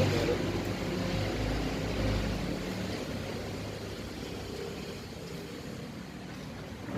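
A motor vehicle engine running with a steady hum that fades away over the first three seconds, leaving faint background noise.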